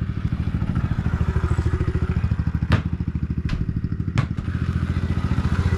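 Small 110cc single-cylinder four-stroke dirt bike engine running at a fairly steady speed with a rapid pulsing note. A few sharp clicks sound over it.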